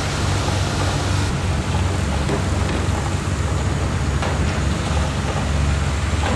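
Heavy diesel earthmoving machinery running steadily, a low rumble with a few faint knocks.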